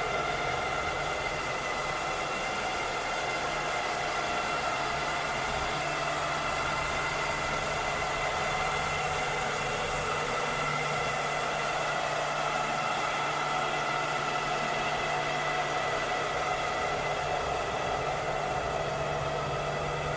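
Cleaning robot running steadily: an even motor-and-fan whir with a constant hum and several steady whining tones over a hiss.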